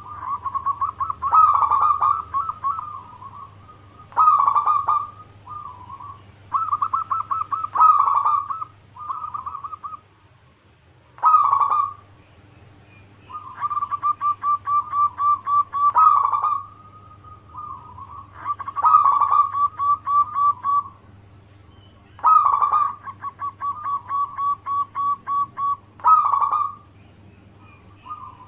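Zebra dove (perkutut) cooing its song over and over: phrases of quick, stuttering coos around one pitch, each a second or two long, with short pauses between.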